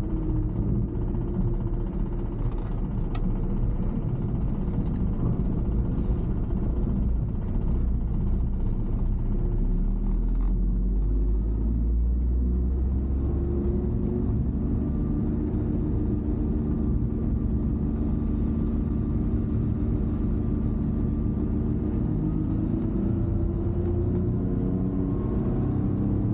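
Mini truck engine running while driving, with a steady low rumble. From about halfway through, the engine note rises and falls as the revs change.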